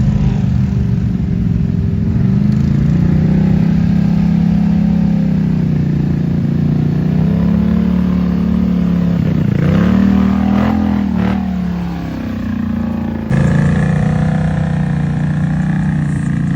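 Off-road vehicle engine held at high revs in the mud, with its pitch dipping and surging up and down a few times around the middle. About 13 seconds in the sound changes abruptly to another stretch of steady high-revving engine.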